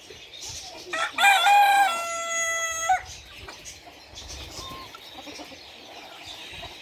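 A rooster crowing once, about a second in, lasting about two seconds and ending on a long held note.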